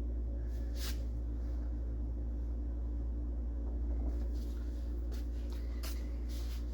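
A steady low hum, with a few brief faint rustles or taps about a second in and twice near the end.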